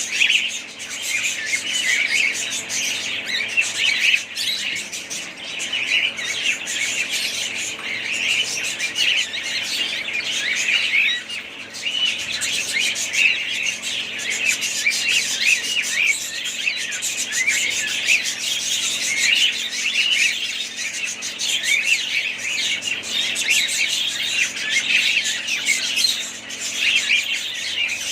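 A flock of budgerigars chattering and chirping, many birds at once in a continuous, dense warble.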